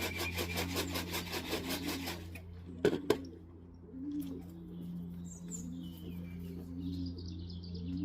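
A feed tin shaken in a fast, even rattle of about seven shakes a second that stops about two seconds in, then two sharp knocks. Afterwards pigeons coo softly, with a few higher bird chirps.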